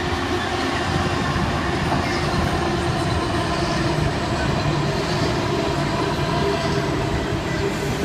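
A freight train hauled by 82 class diesel-electric locomotives passing at speed, with steady engine drone and wheel-on-rail noise.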